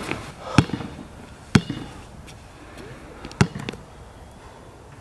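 A basketball hitting the court: three sharp bounces spaced irregularly over the first three and a half seconds, then a couple of faint taps.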